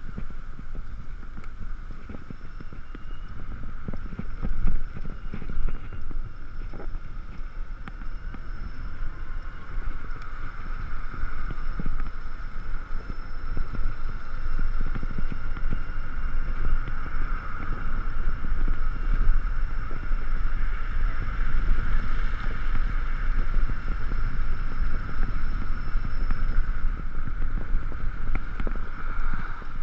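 Ekoway ML5000 electric scooter under way: a steady electric motor whine that swells a little as it speeds up, over heavy wind rumble on the helmet-camera microphone and road noise.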